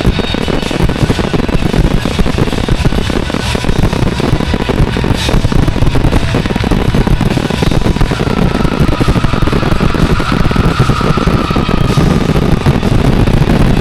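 Fireworks going off in a dense, rapid barrage of bangs and crackles, with a whistle heard for a few seconds past the middle.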